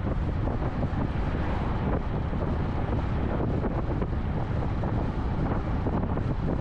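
Steady road and wind noise from a car cruising at highway speed, with a low rumble and wind buffeting the microphone.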